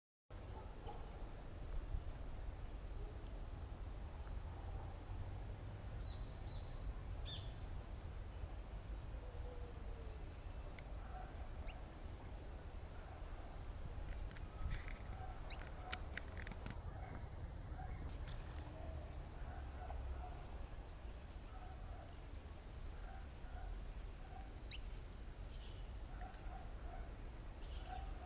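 Quiet outdoor ambience: a steady high-pitched insect drone that drops out for about a second past the middle, over a low wind rumble, with faint scattered bird chirps and a few sharp clicks.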